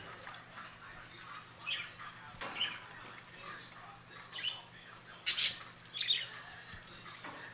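Pet budgerigars giving short, scattered chirps, with a louder scratchy burst of noise about five seconds in.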